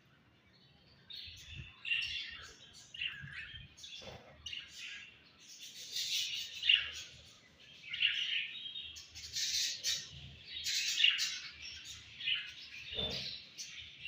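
A colony of budgerigars chirping and warbling, many short calls overlapping.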